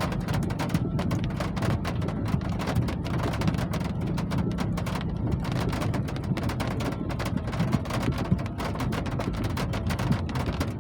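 Steady rain falling, a dense hiss of many separate drop hits over a low rumble.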